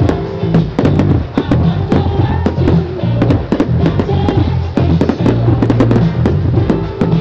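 Fireworks going off in frequent sharp bangs and crackles over loud music with a steady, deep bass line.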